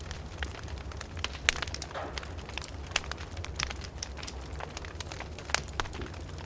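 Wood fire burning in a fireplace, crackling with irregular sharp pops, the loudest about a second and a half in and again near the end, over a steady low rumble.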